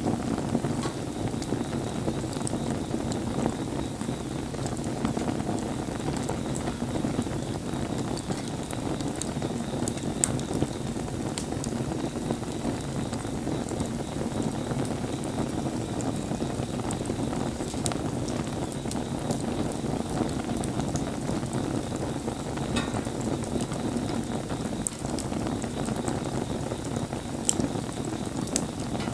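Wood campfire burning: a steady low rush of flame with scattered sharp crackles and pops from the burning wood, a few louder pops near the middle and near the end.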